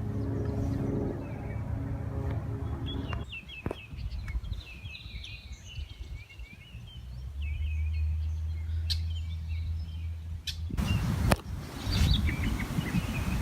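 Songbirds chirping. A steady low engine-like hum stops about three seconds in, and a loud rough noise cuts in abruptly near the end.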